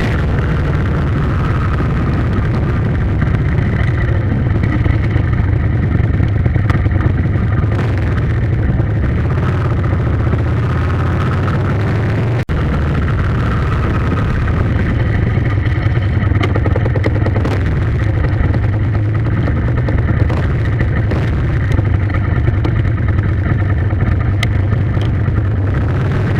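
A motor vehicle's engine running with a steady low rumble, broken by a momentary dropout about halfway through.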